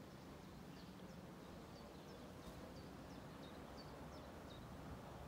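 Faint birdsong: a string of short, high chirps over a low, steady hum.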